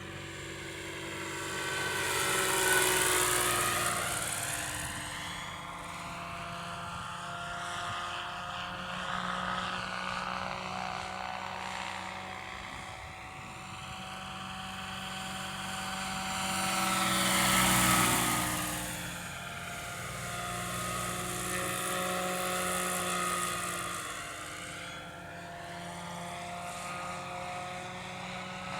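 Lockheed 286 helicopter flying past twice, loudest about three seconds in and again at about eighteen seconds in, with a steady engine and rotor hum between the passes. The pitch sweeps as it comes and goes.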